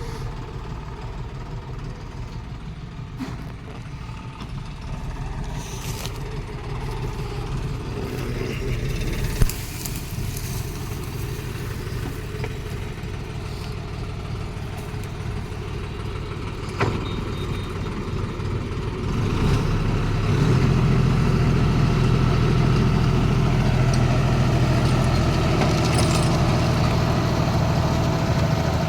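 John Deere 5210 tractor's diesel engine running steadily under load, growing louder about two-thirds of the way through, with a couple of brief knocks.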